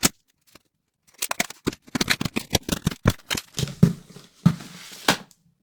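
Rapid clicks, scrapes and rustling of a cardboard shipping box being opened and its contents handled, played back fast-forwarded.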